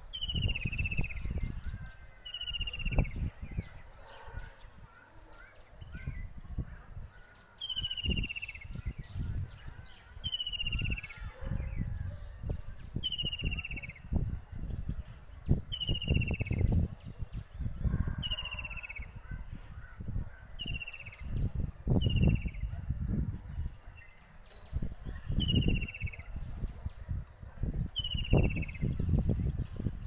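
A bird calling repeatedly: a short, falling call about every two to three seconds, around a dozen times. A low, uneven rumble comes and goes beneath the calls.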